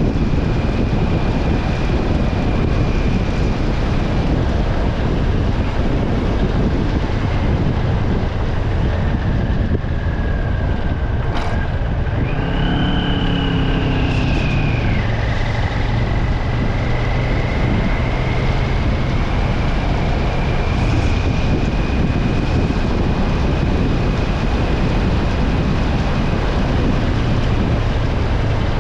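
Vehicle driving on a wet road after heavy rain: a steady hiss of tyres and road noise over a low engine hum, with a thin whine that drifts in pitch. About halfway through, a brief higher tone with a lower hum under it sounds for a couple of seconds and falls slightly as it fades.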